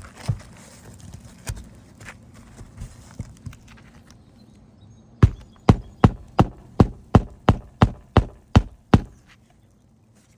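Hammer driving a roofing nail into an asphalt shingle: a few scattered knocks, then about five seconds in a run of eleven sharp blows, about three a second, that stops about nine seconds in.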